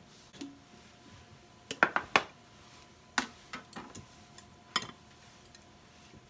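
Kitchenware clinking and knocking as it is handled: a series of sharp clinks, the loudest a quick run of three about two seconds in, with further single knocks after about three and five seconds.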